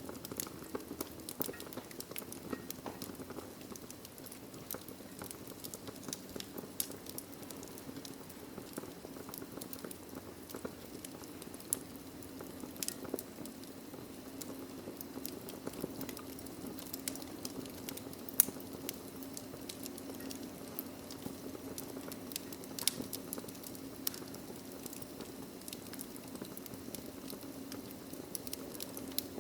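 Wood logs burning in a fireplace, crackling: a steady low rush of flame with frequent sharp pops and snaps, one especially loud pop a little past halfway.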